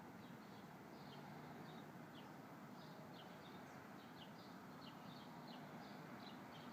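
Faint small birds chirping, many short high chirps a few a second over a quiet outdoor background hiss.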